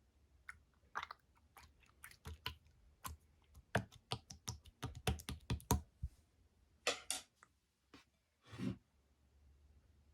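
Slime being pressed and squished by hand: a quick run of sharp clicking pops, then two longer squishing sounds near the end.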